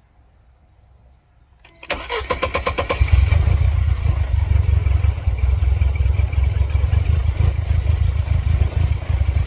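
1999 Mercedes-Benz C230 Kompressor's supercharged four-cylinder engine being started: a click, about a second of starter cranking, then it catches about three seconds in and settles into a steady idle. The engine has serious running faults and a flashing check engine light, and is still struggling as it idles.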